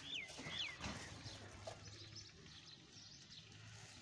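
A bird calling: two short notes falling in pitch in the first second, followed by fainter chirping over a quiet outdoor background.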